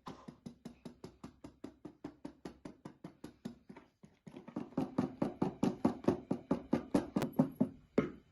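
Rapid, evenly spaced knocking, about five strokes a second, which grows louder about halfway through and stops shortly before the end.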